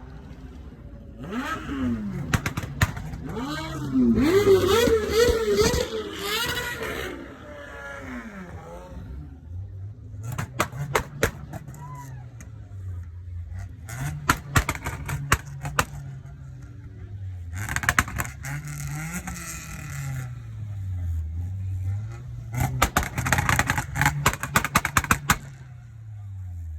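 A car engine revved up and down repeatedly, each rev rising and falling in pitch. There are bouts of sharp crackling during the revs, with a long loud stretch a few seconds in.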